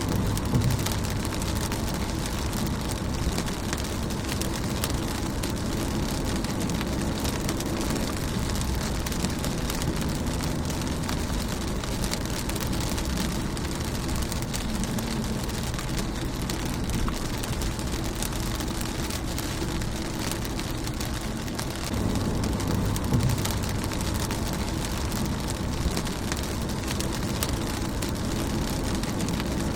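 Steady rain falling on a car's windshield, dense patter of drops, with a low rumble underneath.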